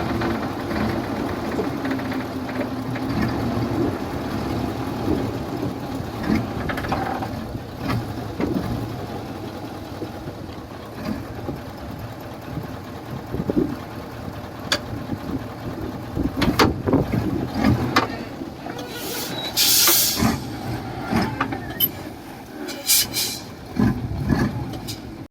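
Heavy diesel construction machinery running, with a steady engine drone at first and then a series of sharp metallic knocks and short bursts of hiss in the second half.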